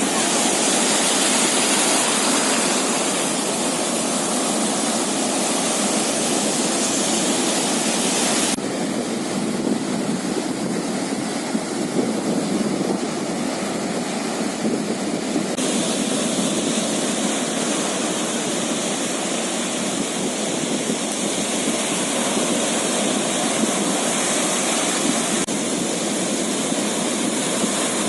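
Steady rushing noise of wind and sea water at sea, with no engine tone. Its tone changes abruptly about eight seconds in and again about fifteen seconds in.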